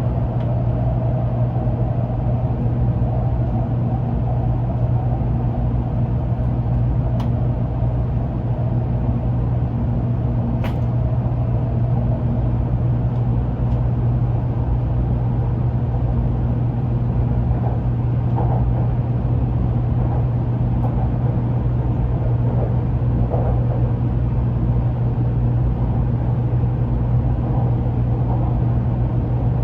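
Steady running noise of a Shinkansen train heard from inside the car: a constant low hum and rumble with little change, and a couple of faint clicks.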